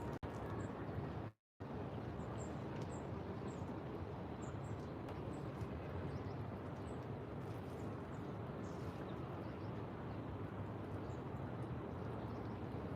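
Steady low rumble of distant city traffic with faint, scattered high bird chirps over it. The sound cuts out completely for a moment about a second and a half in.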